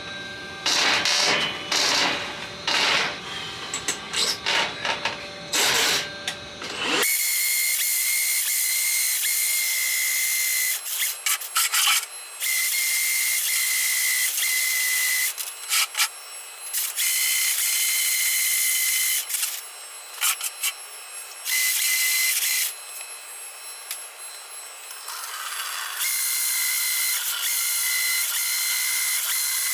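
Drain snake machine running as its cable is pulled back out of the line, with rattling and knocking for about the first seven seconds. Then the sound turns abruptly thin: a steady high hiss with a whine that drops out and returns several times.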